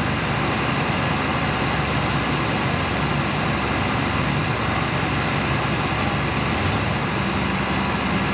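Excavator engine running steadily at a constant pitch.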